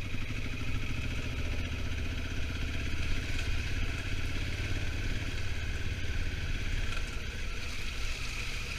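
Honda Africa Twin motorcycle engine running steadily at cruising speed, a low drone with wind and road noise over it.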